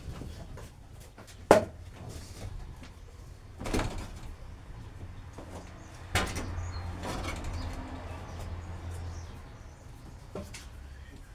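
A few sharp knocks and thumps at irregular intervals, the loudest about a second and a half in, with a low steady hum in the middle stretch.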